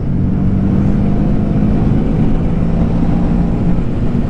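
125cc single-cylinder mini bike engine running steadily, with a low wind rumble on the helmet microphone.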